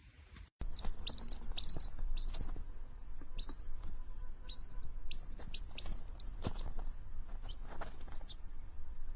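A small bird chirping over and over, short high chirps a few a second, starting after a sudden cut about half a second in and stopping about a second before the end. A low rumble and a couple of light knocks lie underneath.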